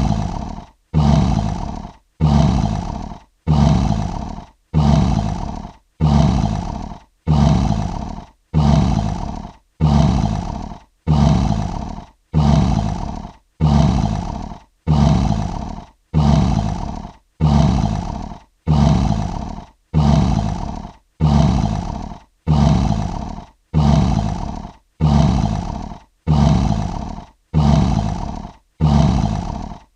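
Lion roar sound effect: one short roar looped over and over, about every 1.2 seconds, each starting abruptly and fading out before the next.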